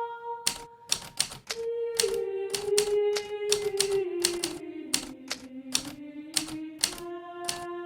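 Hermes Baby portable typewriter keys striking at an uneven typing pace, about two to three keystrokes a second, over a slow melody of held notes.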